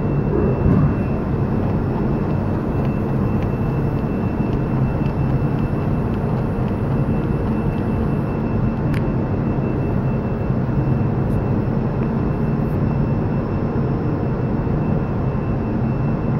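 A steady mechanical drone with a low hum and a faint high whine, unchanging throughout.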